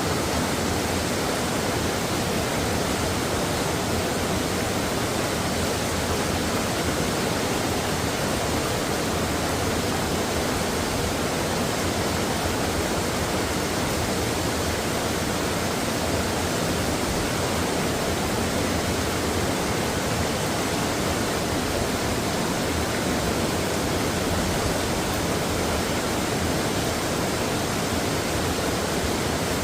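Mountain stream water flowing over rocks: a steady, dense rushing that holds at the same level throughout.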